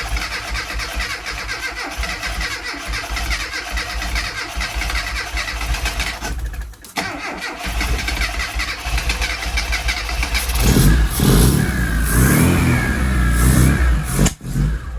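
A classic Mini's A-series engine is cranked on its starter. There is a brief break about six and a half seconds in, then more cranking. About ten seconds in the engine catches and runs unevenly, rising and falling in pitch, then cuts out abruptly near the end. It is a first start after a rebuild, with a faulty starter relay that burns out.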